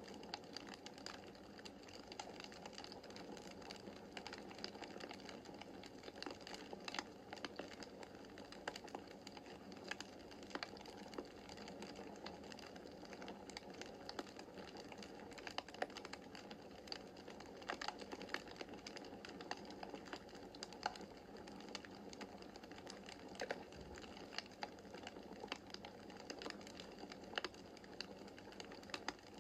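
Wood fire crackling in a fireplace: frequent irregular sharp pops and snaps over a steady soft hiss of the burning logs.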